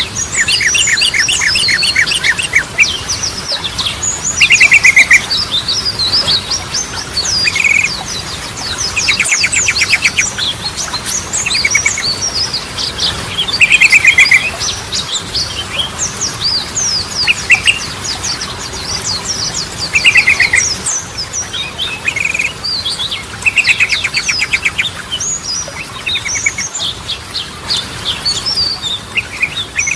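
Sooty-headed bulbul (trucukan) singing: short, fast rattling trills repeated every second or two, mixed with quicker high chirping notes, with no pause.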